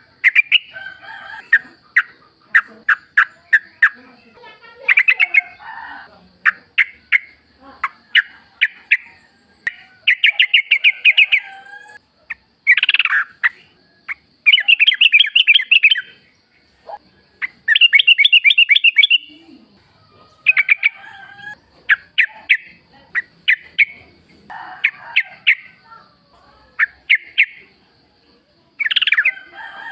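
Yellow-vented bulbul (trucukan) singing: short bursts of quick, bubbly chattering notes, repeated every second or two, over a faint steady high tone.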